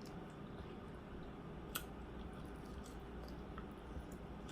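Quiet room tone with a faint steady low hum, a few soft ticks and one sharper click a little before the middle.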